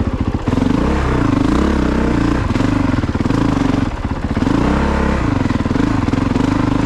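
2022 Honda CRF450RX's single-cylinder four-stroke engine revving under throttle, its pitch rising and falling. The revs dip briefly about four seconds in, then pick up again as the bike works through deep, wet ruts.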